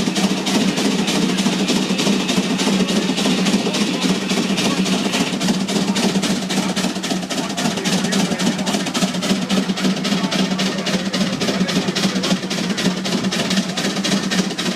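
Vintage engine running steadily, its firing strokes an even, rapid knocking of about five beats a second over a steady low hum.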